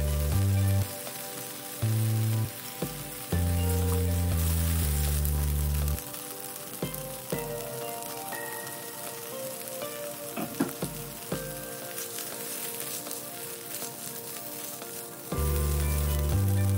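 Diced chicken sizzling as it fries in a nonstick pan, turned with a silicone spatula that scrapes and taps lightly against the pan a few times. Background music with deep bass notes comes in at the start, again for a few seconds, and near the end.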